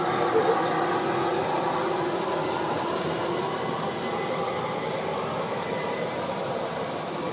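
G gauge model train running along the track, a steady motor and wheel hum that slowly grows fainter.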